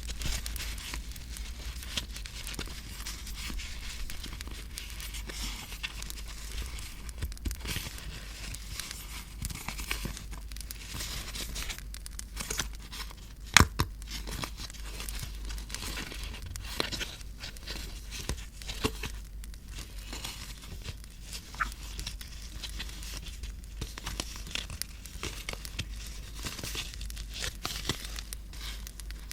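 Paper being handled, crinkling and tearing, with many small rustles and one sharp click about halfway through.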